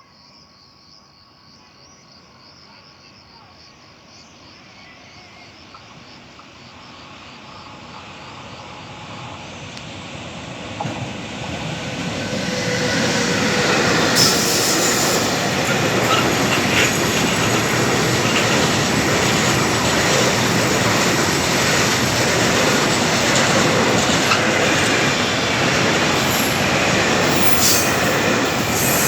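Freight train hauled by an E186 electric locomotive, with container wagons, approaching and growing steadily louder over the first dozen seconds, then passing close by. The passing sound is a steady rolling rumble and rattle of wagons, with thin wheel squeal running through it.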